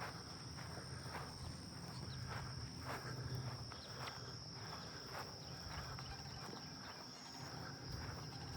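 Sandhill cranes calling faintly now and then, over a steady high-pitched drone of insects.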